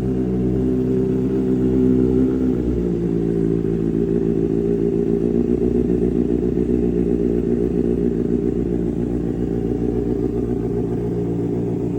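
Kawasaki sportbike's inline-four engine idling after a cold start, after sitting unused for three days. About three seconds in the idle note changes, the deep rumble dropping away, then it runs on steadily.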